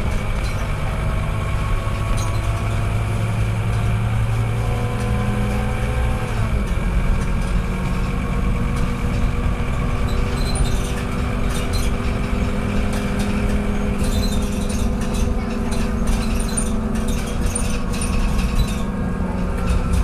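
Scania K230UB bus engine running under way: a steady low drone with whining tones that rise slowly, then fall away together about six and a half seconds in and hold level after that.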